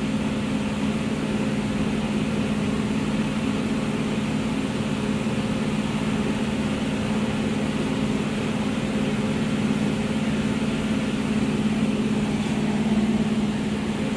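Toyota Crown engine running at a steady fast idle, around 2000 to 2800 rpm with no throttle applied, not dropping back. The high idle is a fault the owner traces to the throttle, where a plastic piece meant to hold the metal linkage was out of place.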